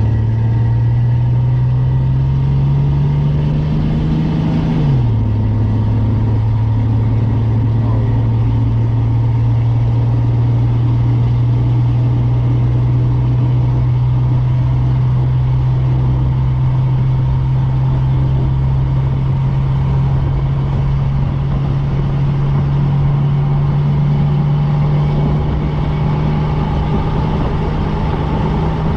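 Car engine pulling while driving: its pitch climbs for about five seconds, drops sharply at a shift into the next gear, then holds steady and slowly climbs again near the end.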